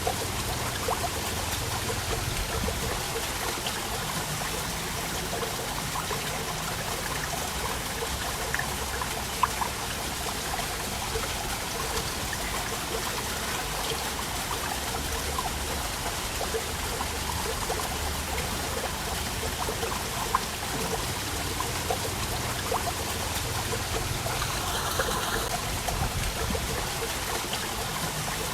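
Waterfall: a steady rush of falling water with small splashes and trickles through it, a few of them briefly standing out.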